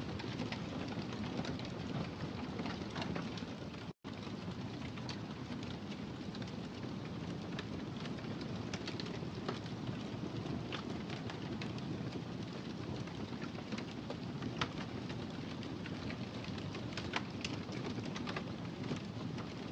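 Wood fire crackling in a fireplace: a steady low rush of flame with scattered sharp pops and snaps. The sound drops out for a split second about four seconds in.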